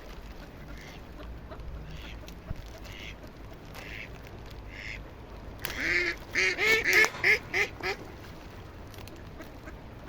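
Ducks quacking: soft calls about once a second, then a loud, quick run of about eight quacks some six seconds in.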